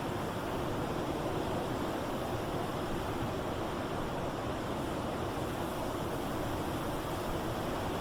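Blizzard wind blowing in a steady, unbroken roar.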